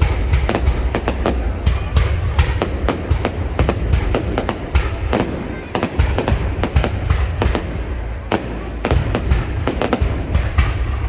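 Fireworks going off: many sharp bangs and cracks in quick, irregular succession over a continuous low rumble.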